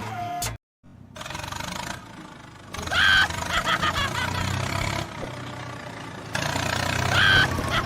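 Vehicle engines running with a steady low hum, cut together in short pieces after a brief dropout under a second in. Short high-pitched bursts come about three seconds in and again near the end.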